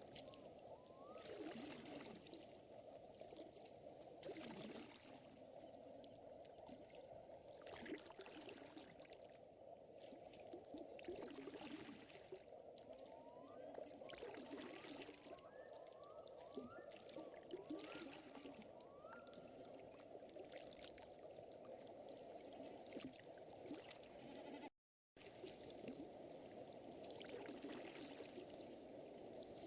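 Faint, steady lakeside nature ambience: water trickling and lapping, with fire crackle and pops scattered through it and a few short rising chirps. The sound cuts out completely for a moment about 25 seconds in.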